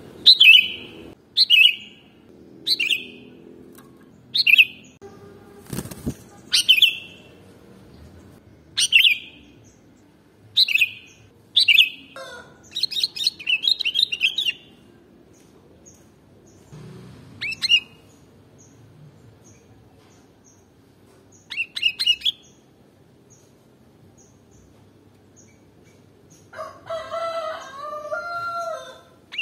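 Sooty-headed bulbul (kutilang) calling: short, sharp, falling notes repeated about every second and a half, then a quick chattering run midway and sparser calls after it. A lower, warbling phrase comes near the end.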